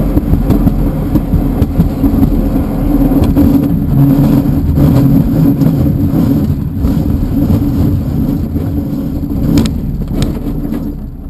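Glider's single main wheel rolling on the runway during the landing rollout: a loud, rattling rumble inside the cockpit. It eases off over the last few seconds as the glider slows, with a couple of sharp knocks near the end.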